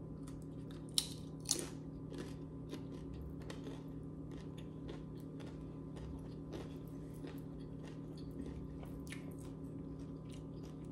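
A person chewing and biting food, with many small wet mouth clicks throughout and two sharper clicks about a second in. A steady low hum runs underneath.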